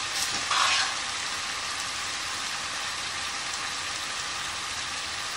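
Cubed chicken frying in a hot skillet, a steady sizzle, with a brief louder rustle about half a second in.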